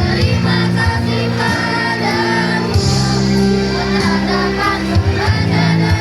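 Children's choir singing over instrumental accompaniment with sustained low notes.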